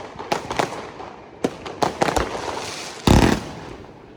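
Fireworks and firecrackers going off: several separate sharp bangs, then a louder, longer blast about three seconds in that fades away.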